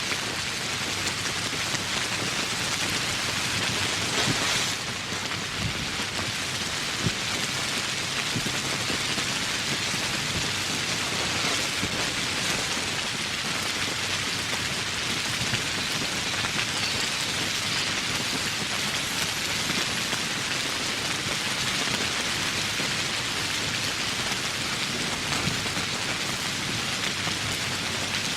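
Steady rain falling: an even hiss of many drops with no pause.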